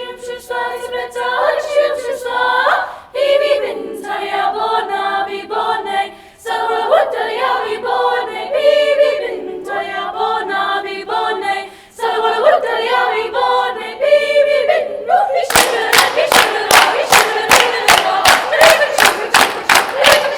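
Treble choir singing a cappella in an invented language, in phrases broken by short breaths. About three-quarters of the way through, sharp even beats, about four a second, join the singing.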